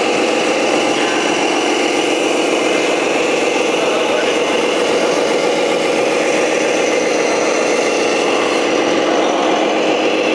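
Tamiya radio-controlled Scania truck model running, a steady mechanical drone with a higher whine above it and no change in pitch.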